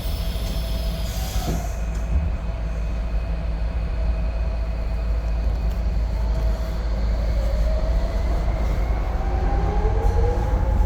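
Docklands Light Railway train running, heard from inside the carriage: a steady low rumble, a hiss in the first second and a half, and a motor whine rising in pitch from about seven seconds in as the train picks up speed.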